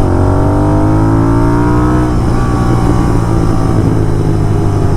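Royal Enfield GT650's parallel-twin engine on the road, its note rising for about two seconds and then holding, over a steady low drone. The rider is working the throttle to draw overrun crackles from the stock exhaust, but no distinct pops stand out.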